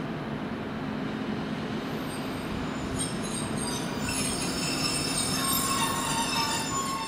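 A train moving through the station with a steady low running noise. About three seconds in, a high metallic squeal of several piercing tones sets in and grows louder.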